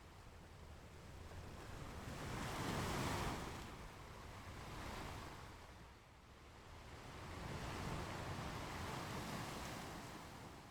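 Ocean waves washing onto a beach in slow surges: one swells to a peak a little under three seconds in and ebbs, and another builds around eight seconds in.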